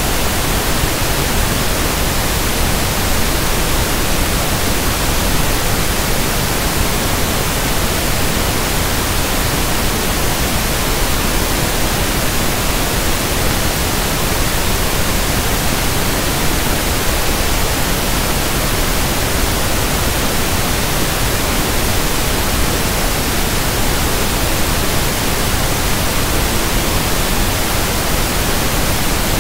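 Synthetic 1/f pink noise: a steady, even hiss that does not change in level.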